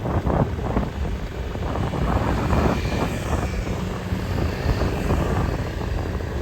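Low rumbling engine of a passing motor vehicle, mixed with wind buffeting the microphone.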